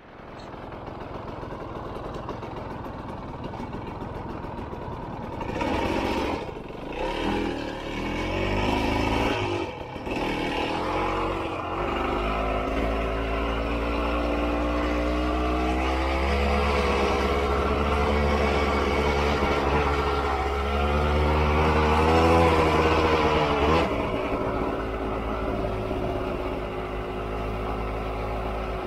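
Honda CRM250 two-stroke single-cylinder dirt bike engine under way. It revs up and down in short bursts about five to twelve seconds in, then pulls with its pitch climbing in steps through the gears, and drops back to a lower steady note about twenty-four seconds in.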